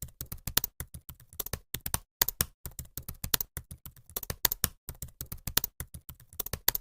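Rapid, irregular key clicks of fast typing on a keyboard.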